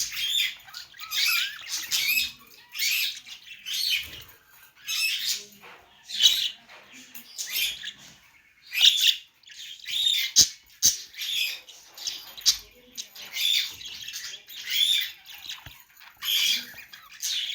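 Budgerigars chirping and chattering: a steady run of short, high chirps and warbles, about one or two bursts a second.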